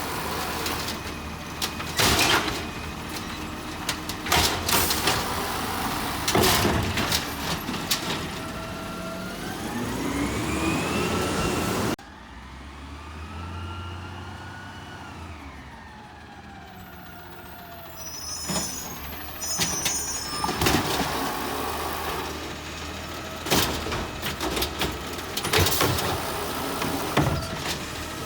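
Garbage truck at work: its engine revs up and down in long rising and falling sweeps as the lifting and packing gear runs, amid repeated bangs and clatters. The sound drops suddenly about twelve seconds in, and the bangs start again in the second half.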